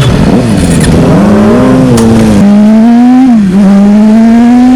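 Sport motorcycle engine pulling hard under acceleration, its note wavering at first and then climbing steadily, with a sharp drop about three and a half seconds in at an upshift before climbing again. Wind rushes over the microphone.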